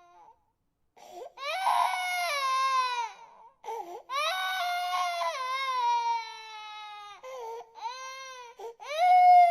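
Infant crying: after a brief pause for breath, a run of about four long, falling wails with short gasping catches between them, the last starting loudest near the end.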